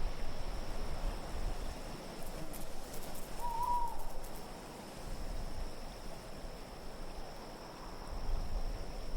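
Wintry wind ambience: a steady wash of wind noise with a thin, high, steady whistle, and one short call about three and a half seconds in whose pitch rises and then falls.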